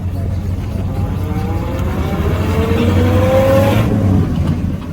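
A classic car's engine accelerating, its pitch rising steadily for about three seconds before cutting off sharply near the end, over a steady low rumble of vehicles.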